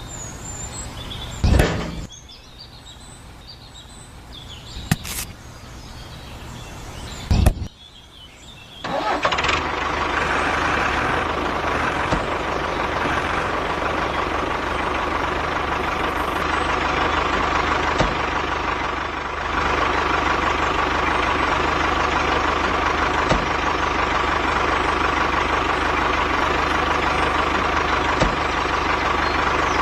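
A few sharp knocks, then about nine seconds in a small motor starts up and runs steadily with a constant hum and whine.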